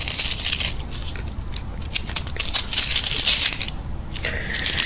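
Crunching of a frozen sweet food being chewed close to the microphone, in irregular bursts that are densest about two to three and a half seconds in.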